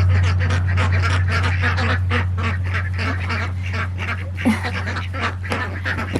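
A flock of domestic ducks quacking continuously, many short calls overlapping, as they crowd in expecting to be fed. A steady low hum runs underneath.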